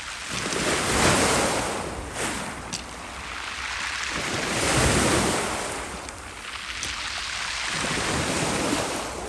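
Black Sea surf washing onto the shore in slow surges that swell and fade, loudest about a second in, near the middle and near the end.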